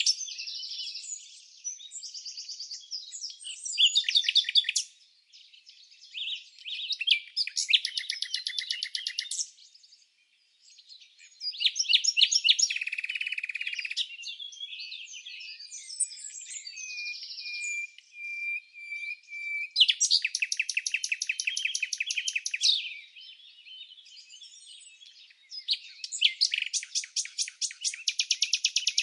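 Songbirds singing and chirping: a run of varied high phrases, several of them fast trills of rapidly repeated notes and one held whistled note, with short pauses between phrases.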